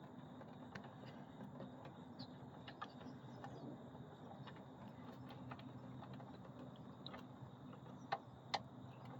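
Engine oil draining in a steady faint stream from the oil-pan drain hole into a catch pan, over a steady low hum, with two sharp clicks near the end.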